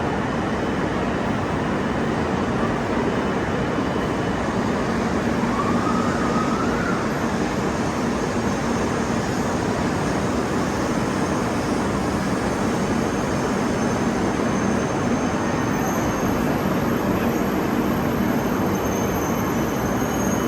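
Shinkansen train running, a steady rushing rumble with a faint low hum.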